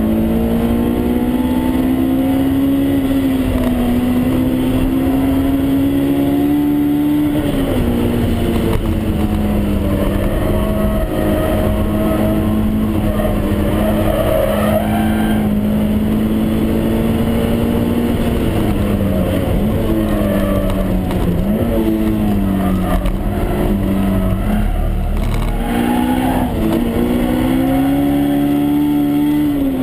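Honda S2000 AP1's F20C inline-four engine pulling hard at high revs, heard from inside the cabin over road and wind noise. Its pitch holds high, falls about a quarter of the way in, dips several times in the second half and climbs again near the end.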